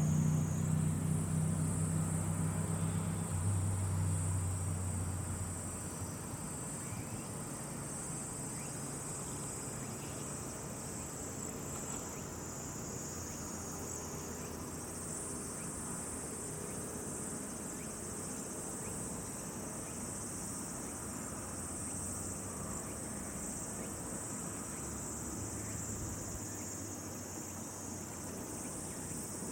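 Outdoor insect chorus, crickets or similar insects, giving a steady high trill. A low hum fades out over the first five seconds.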